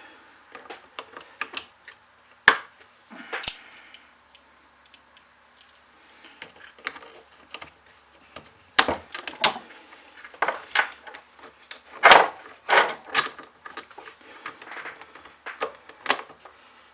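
Tools and small metal parts clinking and knocking on a workbench while a chainsaw is taken apart: irregular sharp clicks and clatters, busier and louder in the second half.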